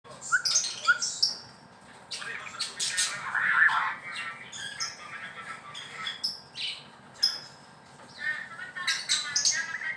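White-rumped shama singing: a varied run of short whistled notes mixed with harsh, scratchy notes and sharp clicks.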